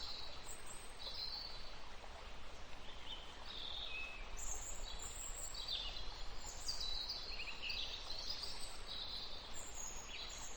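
Small birds chirping and singing, with many short high chirps and quick trills overlapping over a steady background hiss.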